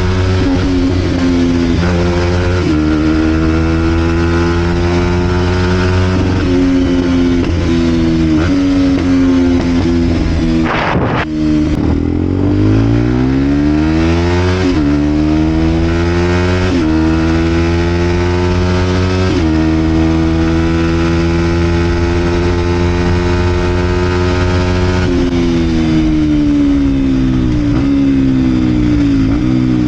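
Vent Derapage 125 four-stroke single-cylinder motorcycle with a full Scalvini exhaust, being ridden. The engine pitch climbs and drops back in steps through several gear changes, with a brief sharp rise in pitch about eleven seconds in. It then holds steady for a few seconds before falling away as the bike slows near the end.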